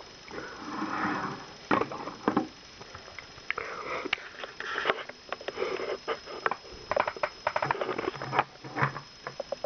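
Handling noises from a PLA plastic cup: irregular small clicks and knocks, with a short breathy hiss about a second in.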